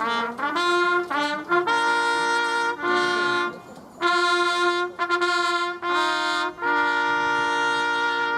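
Ceremonial brass fanfare from the volunteer fire brigade band, a single melodic line: a few quick short notes, then a series of long held notes, the last held longest before it stops.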